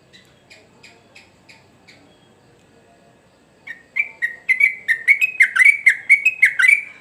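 Yellow-vented bulbul (trucukan) singing: a few soft short notes, then a loud, rapid run of bubbling, warbling notes, about four or five a second, starting a little over halfway through.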